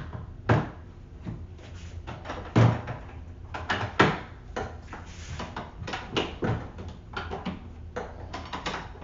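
Irregular hard plastic knocks and clicks as the filter is fitted and the parts of a Ryobi 18V cordless wet/dry vac are handled and seated, over a low steady hum.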